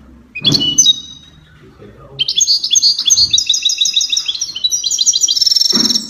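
Songbird chirping: one short high call about half a second in, then a fast, even run of high chirps from about two seconds in until near the end.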